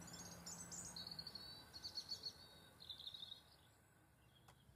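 Faint birdsong: a small songbird's high, quick chirps and twittering phrases, which stop about three and a half seconds in, leaving near silence.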